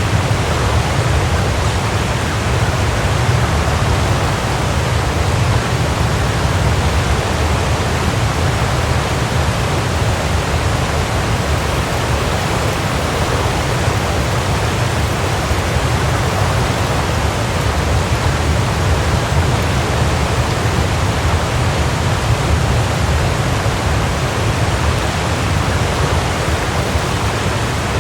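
A waterfall rushing steadily, an even roar of falling water with a deep low rumble.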